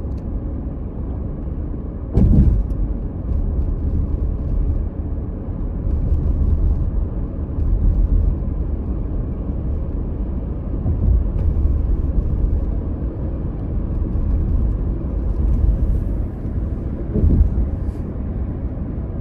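Road noise inside a moving car: a steady low rumble of tyres and engine, with a thump about two seconds in and another near the end.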